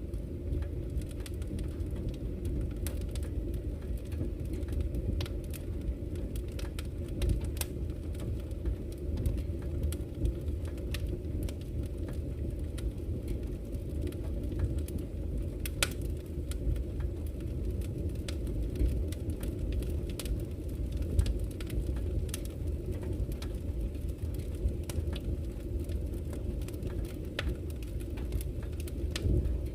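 Wood campfire crackling, with frequent irregular sharp pops and snaps, over a steady low rush of flowing river water.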